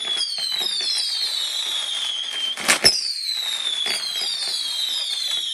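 Fireworks: a run of shrill whistles, each falling in pitch and overlapping the next, with a single loud bang a little under three seconds in.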